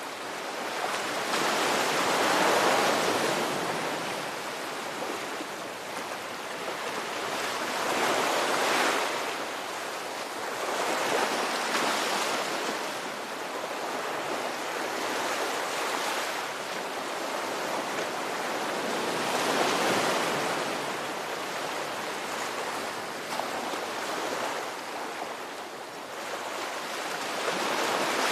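Ocean surf: waves breaking and washing in, a steady rush that swells and eases in about half a dozen slow surges a few seconds apart.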